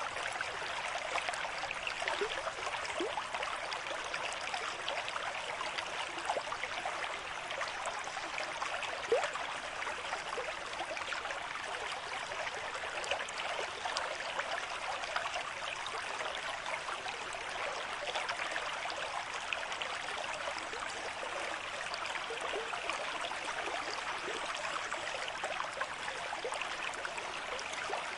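River stream running at moderate flow: a steady rush of water with many small splashes and gurgles.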